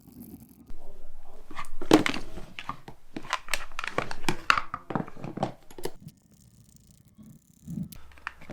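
Metal parts and hand tools being handled during reassembly: a rapid run of sharp clicks and knocks lasting about five seconds, then quiet.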